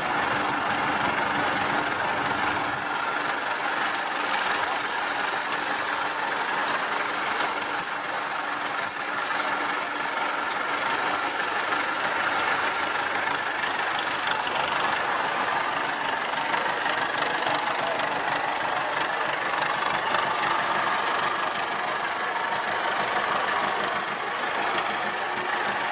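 IFA W50 truck's diesel engine running steadily, with no rise or fall in revs.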